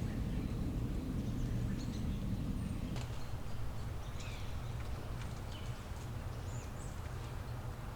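Outdoor ambience: a steady low rumble with short, scattered bird chirps over it; the rumble drops away about three seconds in.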